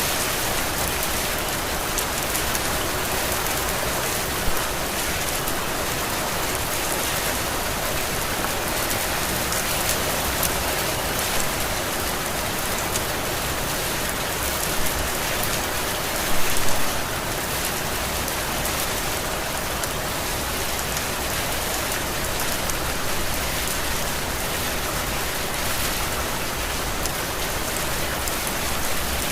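Heavy rain falling steadily and pattering on surfaces, an even dense hiss. A few brief louder moments stand out, about four seconds in and again around fifteen to seventeen seconds.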